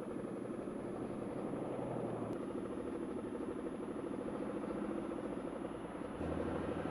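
Motorcycle engine running steadily at low revs, fairly quiet.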